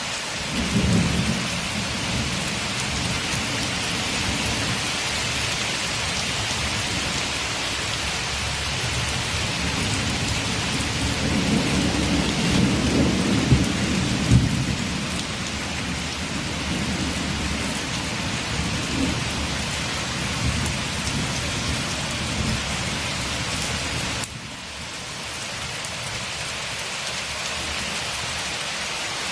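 Steady rain with a long roll of thunder rumbling beneath it, building to its strongest about halfway through and cutting off suddenly near the end.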